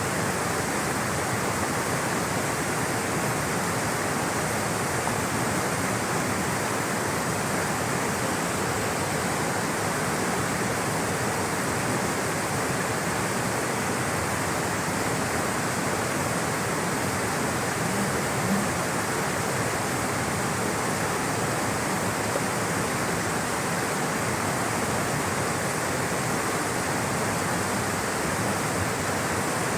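Flowing water rushing steadily in a natural watercourse, an even, unbroken wash of sound.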